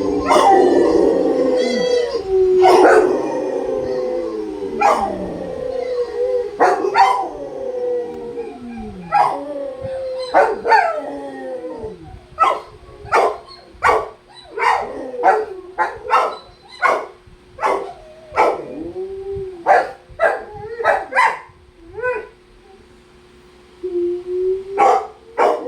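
Rottweilers howling together in long, overlapping, downward-sliding howls. From about halfway the howls break into short yipping calls about once a second, pause briefly near the end, then a long howl starts again.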